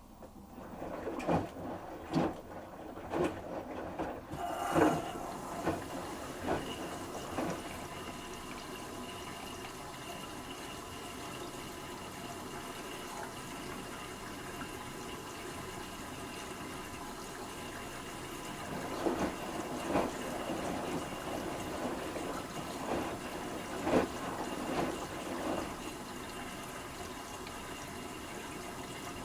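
LG Turbowash 360 front-loading washing machine in its final rinse: water starts running into the drum after a pause and keeps pouring steadily. Splashes about once a second come in the first several seconds and again about two-thirds of the way through.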